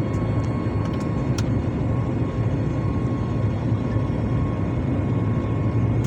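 Steady jet-engine noise inside a flydubai Boeing 737 cabin: an even low rumble with a constant whine, as the airliner takes off and climbs.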